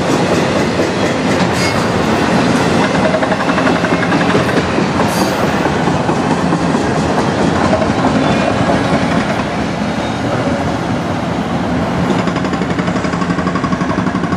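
Freight train's autorack cars rolling past at close range: loud, steady noise of steel wheels running over the rails.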